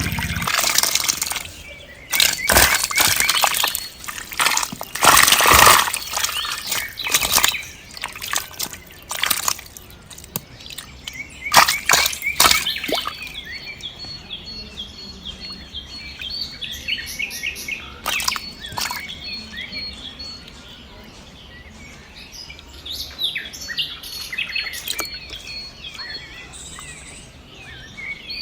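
Small birds chirping and twittering outdoors. A run of loud, irregular splashes and rustles comes through the first half.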